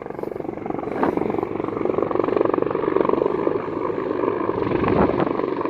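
Large military helicopter's rotor and engines, with a rapid, even rotor chop that grows louder over the first couple of seconds as it comes in, then holds steady.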